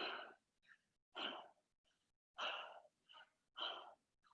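A person breathing hard after intense cardio exercise: four strong exhales a little over a second apart, with softer breaths between them, the sound of someone winded and catching their breath.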